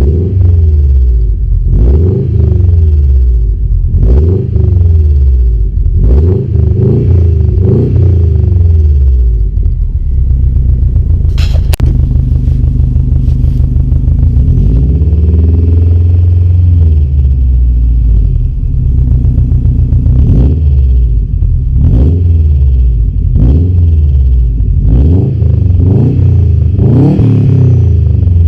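Subaru WRX STI's turbocharged EJ25 flat-four running through a 3-inch turbo-back performance exhaust with a resonated centre section, revved in repeated quick blips, with one longer rev in the middle. One sharp click about 11 seconds in.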